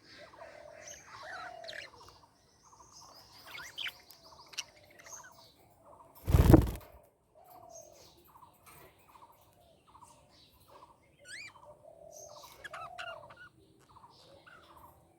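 Budgerigars chattering: quick repeated chirps and warbling whistles. About six and a half seconds in there is a brief loud noisy burst, the loudest sound.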